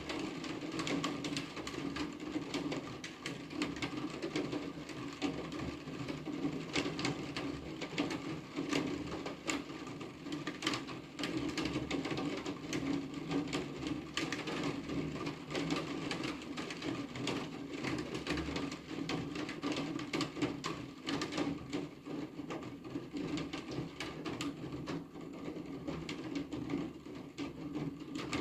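Rain falling, with many close drops ticking irregularly and densely on a hard surface over a steady hiss.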